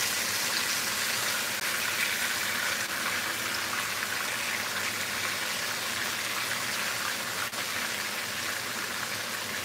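Thick pork chops frying in a skillet of hot oil: a steady sizzle with a faint click or two as they are turned over with tongs.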